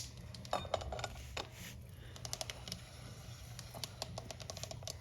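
New motorcycle roller drive chain clicking and rattling as its metal links are handled and fed onto the sprockets: many small, irregular ticks.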